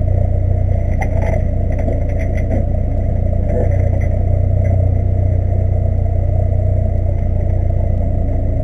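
Renault Mégane rally car's engine idling steadily while the car stands still, heard from inside the cabin. A few light clicks and rattles come about a second in.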